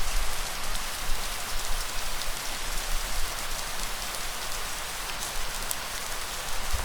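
Steady rain falling, an even hiss with scattered drop ticks. A low rumble sits under it in the first second or so, then weakens.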